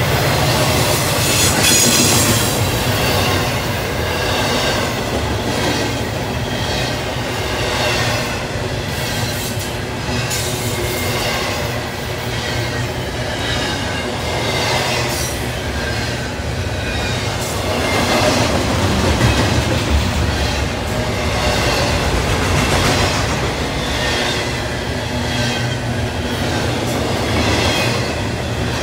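Double-stack intermodal freight cars rolling past at trackside: a steady rumble and clatter of steel wheels on rail, with wavering high-pitched wheel squeals that come and go.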